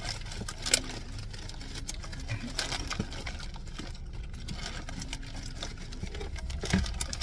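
Scattered small clicks and rustles of food containers and utensils being handled while eating, over a steady low hum.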